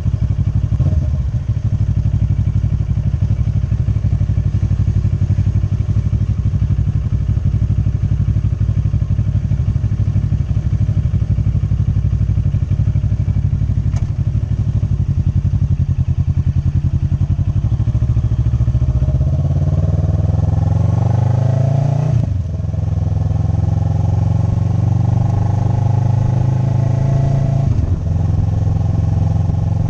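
Motorcycle engine running under way, holding a steady note at first. In the second half the revs climb, with the pitch rising. The note breaks briefly twice as the rider shifts up a gear, then climbs again.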